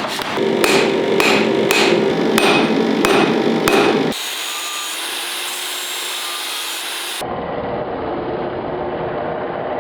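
Hammer blows on steel, about two and a half strikes a second, for the first four seconds. Then abrupt cuts to steady machine noise from other tool work.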